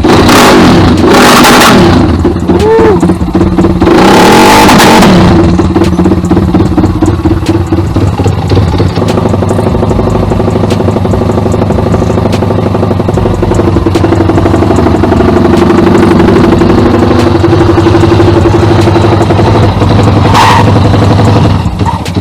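Taotao Hellcat Grom-clone pit bike's Zongshen 190cc single-cylinder four-stroke engine running loud on a cold start, its first in a long time. It gives three sharp throttle blips in the first five seconds, then settles to a steady idle.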